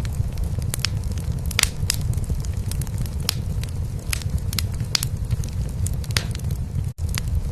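A cat purring as a steady low rumble, mixed with a wood fire in a fireplace crackling and popping in scattered sharp snaps. All sound cuts out for an instant just before seven seconds in, then resumes.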